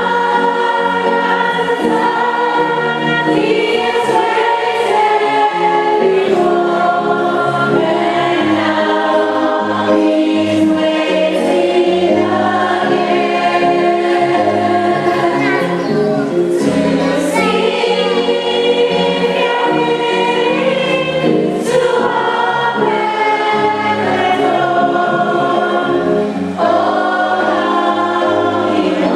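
Choir singing a gospel hymn with accompaniment.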